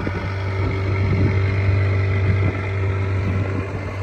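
A small boat's engine running steadily under way, a constant low hum with rushing water and wind noise over it.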